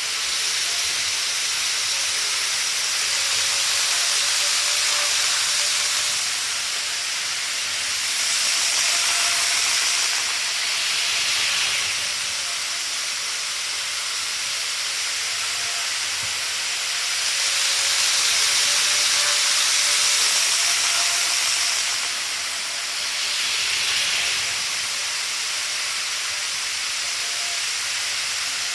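A model train running on track: a steady high rushing noise of wheels on rails, with a faint wavering motor whine underneath. It grows louder and fades again several times as the train passes by and moves away.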